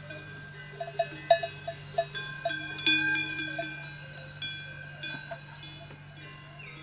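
Bells clanking and ringing in an irregular flurry of strikes, each leaving a sustained ringing tone, over a steady low hum.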